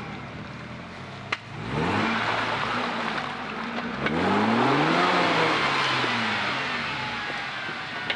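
Off-road 4x4's engine revving hard twice: a rise in pitch about two seconds in, then a longer, louder climb around four to five seconds in that slowly falls away. A few short sharp clicks, one just before the first rev.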